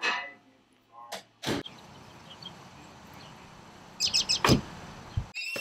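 Outdoor street ambience with a quick cluster of bird chirps about four seconds in. A sharp knock comes just after the chirps, and another about a second and a half in.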